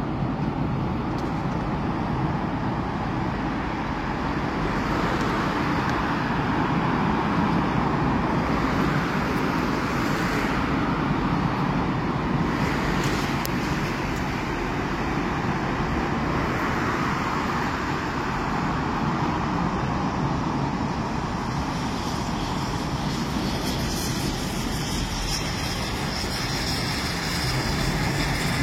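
Commuter train running: a steady rumble and rush of wheels on rail and running gear, swelling and easing a few times.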